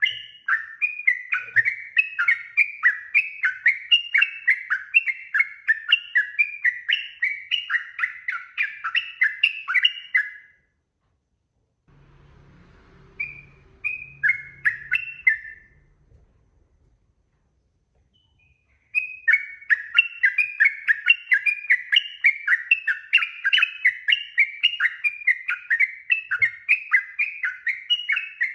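Yellow-vented bulbul (trucuk) singing a long, fast run of bubbly down-slurred notes, about three a second. The run breaks off partway through. A faint low hum and a few scattered notes follow, then the rapid song starts again near the end.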